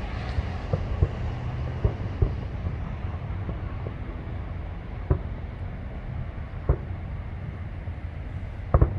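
Distant fireworks going off: single sharp bangs at irregular intervals, and a quick double bang near the end, over a steady low rumble.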